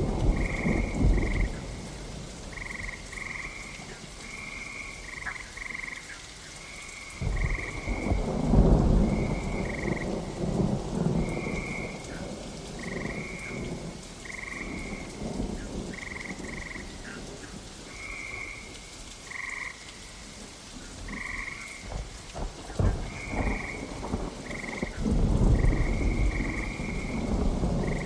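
Thunder rumbling over steady rain, with frogs calling all through in short, repeated high notes. Rolls of thunder come at the start, again about seven seconds in, and once more near the end.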